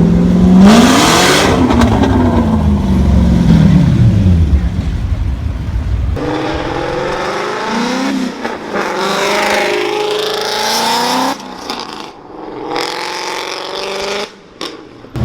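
A car engine revs hard, its note rising for about a second and then falling away over the next few seconds. After that, people's voices take over.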